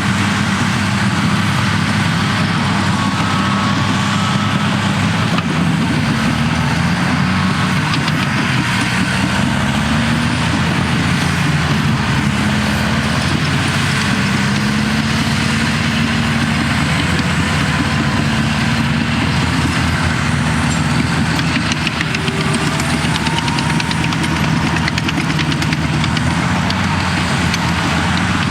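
Cat D6T bulldozer's diesel engine running steadily as it works, its pitch rising and falling slightly with the load.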